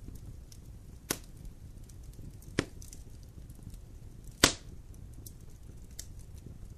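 Wood campfire burning: a steady low rumble with light crackling, broken by three sharp pops of burning wood, each about a second and a half or more after the last. The third pop is the loudest.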